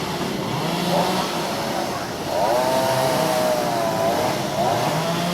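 Chainsaw engine running and revving, its pitch rising and falling as it works through the wood; the longest swell comes about halfway through.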